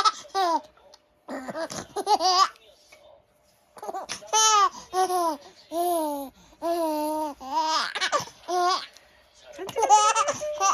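Ten-month-old baby laughing while being tickled, in clusters of high-pitched bursts with a short pause about three seconds in.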